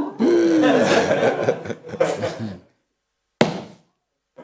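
Congregation laughing for about two and a half seconds, many voices together, with one short sharp sound a little later.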